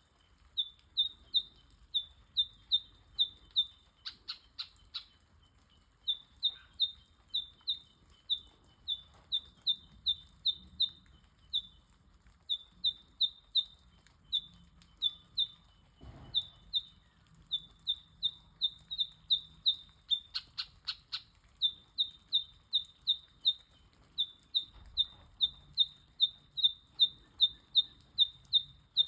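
Eastern yellow robins calling: a long series of short, sharp piping notes, about three a second in runs with brief gaps. Twice, at about 4 seconds and near 20 seconds, a short burst of rapid harsher notes cuts in.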